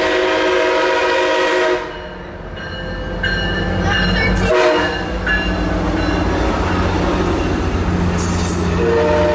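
MARC commuter train's locomotive horn sounding a loud chord, higher pitched than a freight horn, cutting off about two seconds in. The train then runs past with a steady low rumble, short high squealing tones coming and going over it.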